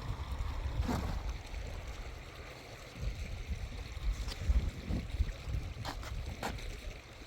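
Wind rumbling on the microphone over a steady wash of running water, with a few short sharp knocks or splashes about a second in and twice near the end.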